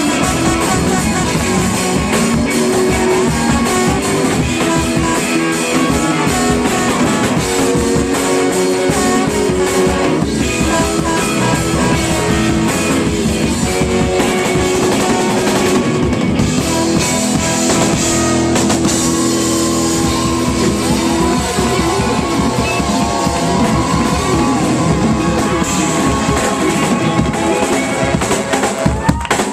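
Live rock band playing an instrumental stretch of a song, with electric guitar and drum kit, loud and steady.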